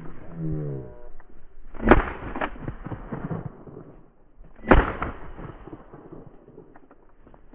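Two shotgun shots about three seconds apart, each a single sharp crack.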